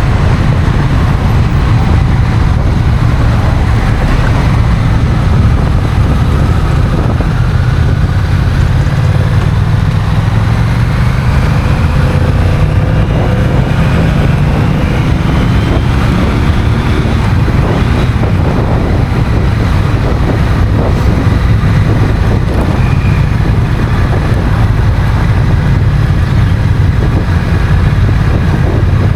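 Honda CMX1100 Rebel's 1084 cc parallel-twin engine running under way, mixed with heavy wind noise on the microphone. Over several seconds in the middle the engine note rises in pitch as the bike accelerates.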